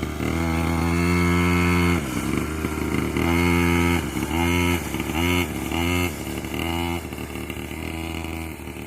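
Brand-new 49cc children's quad bike engine revving in short bursts as the throttle is pressed and let off, about six blips each held at a steady pitch, growing fainter near the end. Kept to gentle, low revs while the new engine is broken in.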